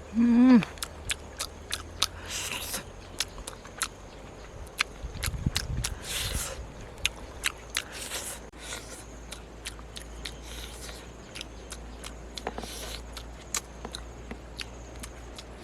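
A person eating: chewing and lip-smacking with many small sharp clicks throughout. A short hummed "mm" comes just after the start.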